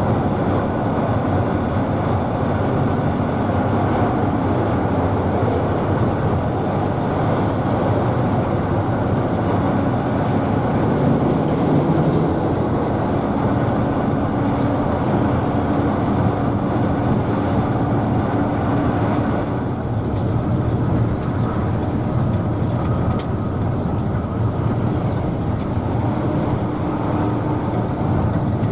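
Mercedes-Benz OH1113 bus's diesel engine running steadily with a dense, continuous rumble.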